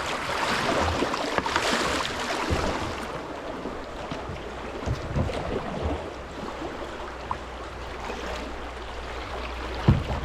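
Shallow creek water running around a kayak, louder for the first three seconds and then softer, with a few dull knocks.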